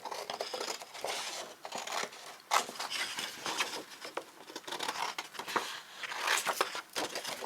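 Scissors cutting through a sheet of paper, an irregular run of snips with paper rustling between them.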